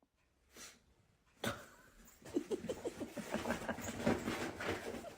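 A dog making a quick run of short vocal sounds, starting about two seconds in after a near-silent start.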